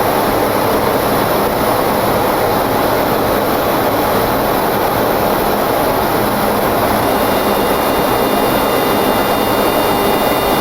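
Steady flight-deck noise of a Boeing 727-200 in flight at about 220 knots: loud rushing airflow mixed with the hum of its jet engines. A few faint, steady high tones join in about seven seconds in.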